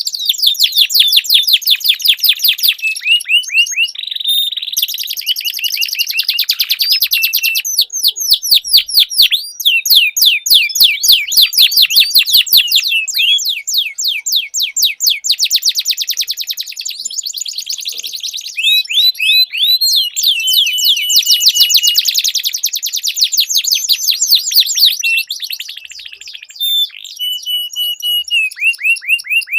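Domestic canaries singing long, unbroken rolling trills of rapid repeated notes, with now and then a short held whistle.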